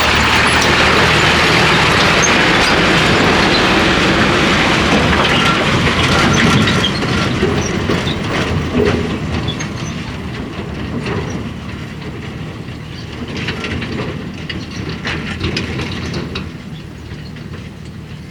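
Heavily loaded sand tipper truck driving past close by, its engine running under load while the body and chassis rattle and clank over the rough road surface; loud at first, then fading as it moves away.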